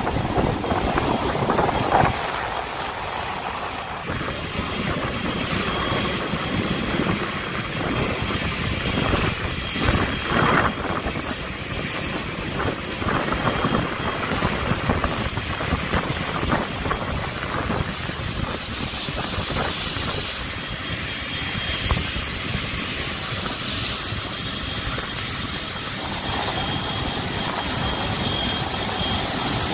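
Aircraft engine noise from an aircraft flying in an air display, a steady loud rush without pauses.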